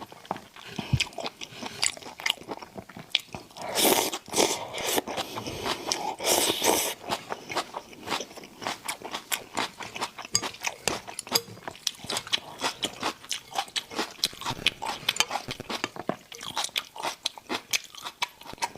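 Close-miked eating of raw shrimp and noodles: rapid wet chewing and crunching clicks. Two louder, noisier stretches come about four and six seconds in.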